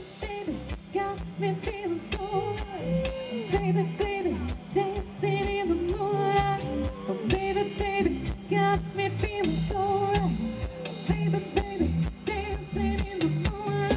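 Live pop band music with a steady drum beat under a melody line.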